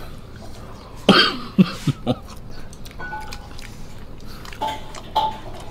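A person coughing: one sharp cough about a second in, then three shorter coughs in quick succession.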